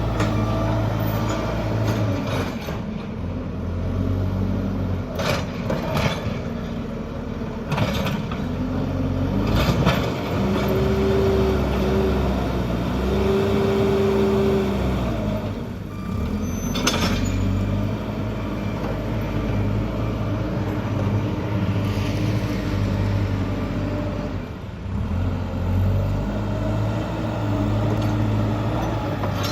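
JCB backhoe loader's diesel engine running and revving up and down as the machine works, with several sharp metallic knocks. Reversing beeps sound faintly near the start and again near the end.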